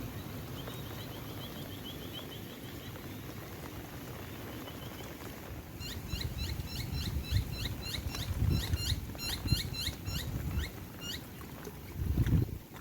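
Birds calling: a faint rapid trill in the first few seconds, then a louder run of sharp, down-slurred notes repeated about three times a second. Under them, low wind buffeting on the microphone gusts up a couple of times, most strongly near the end.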